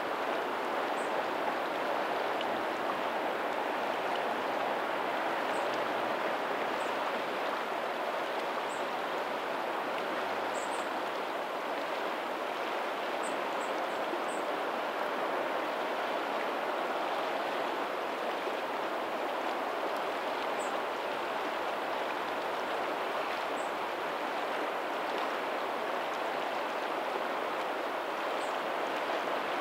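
Steady rush of tidal outflow water running past a pebbly shore, an even, unbroken flow sound. Faint brief high chirps or ticks come now and then over it.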